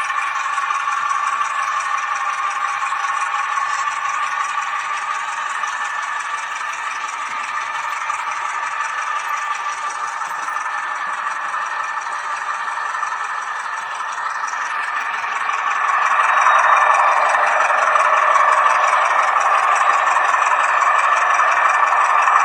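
H0-scale model of a Renfe Alco 313 diesel locomotive running on the layout, with a steady mid-pitched hum and rattle from its drive and wheels. It grows louder about 16 seconds in.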